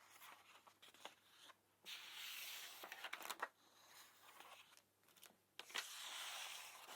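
Faint close-miked ASMR mouth sounds: soft wet clicks with two stretches of breathy hiss.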